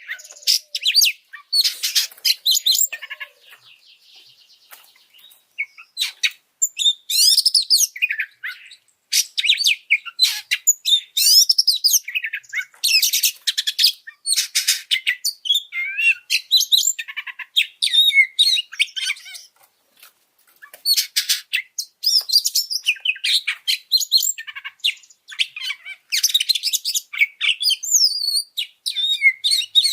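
Oriental magpie-robin (kacer) singing a loud, fast string of varied whistles and chirps in phrases, with short pauses about three seconds in and again near twenty seconds; a high-excitement song of the kind played to fire up captive kacer.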